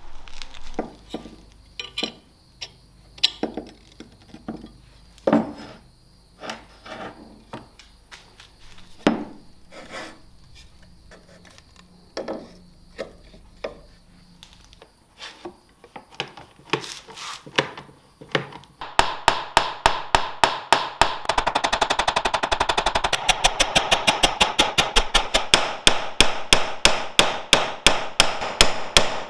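Hand hammer work: scattered single knocks and taps at first, then, about two-thirds of the way in, a fast, steady run of light hammer strikes at about four to five a second.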